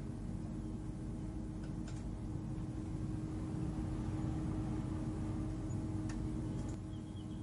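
Steady low ambient space hum: a deep rumble with a constant droning tone over a soft hiss, with a few faint ticks about two seconds in and again near the end.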